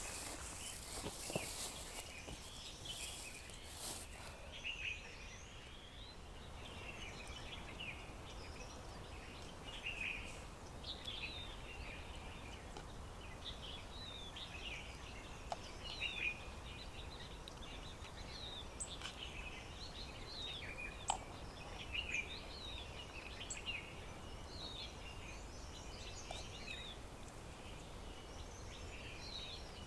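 Wild birds chirping and calling, many short, quick high notes overlapping throughout. A rustling noise runs through the first few seconds.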